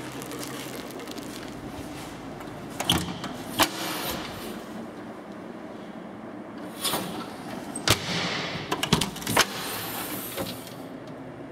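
A few sharp clunks and knocks over a steady background noise, with a longer rushing swell in the second half.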